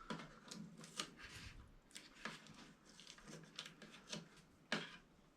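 Faint handling sounds from working on the printer by hand: scattered light clicks and rustles of plastic parts and packaging, with one sharper click near the end.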